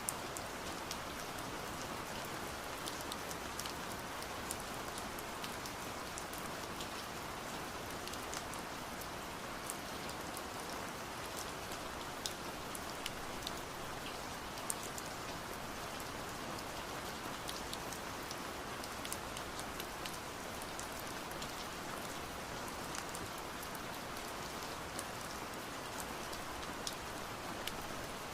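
Steady rain with a constant hiss, and scattered sharp taps of raindrops hitting window glass.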